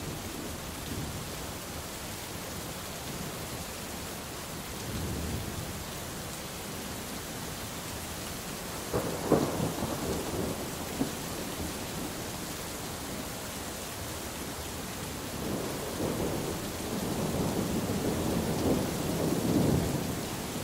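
Thunderstorm: steady rain with thunder. There is a low rumble about five seconds in, a sharp crack about nine seconds in, and a long rumble building through the last five seconds.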